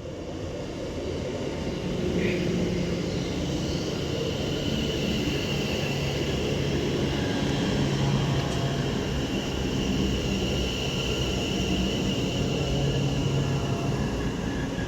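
Double West Midlands Railway Class 730 electric multiple unit pulling into the platform to terminate, running past with a steady rumble of wheels on rail. A steady electric whine and low hum sit over the rumble. It grows louder over the first couple of seconds, then holds steady.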